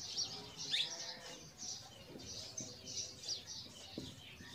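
Small birds chirping repeatedly in short, high notes, with one quick falling note just under a second in. A few faint taps of a marker writing on a whiteboard come through around two and four seconds in.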